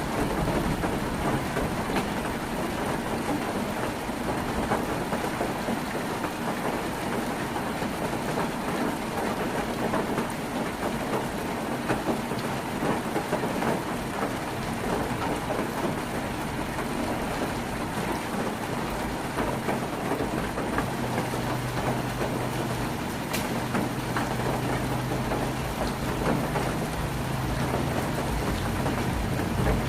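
Heavy rain drumming on a tin roof, a dense, steady patter. A low hum joins in about two-thirds of the way through.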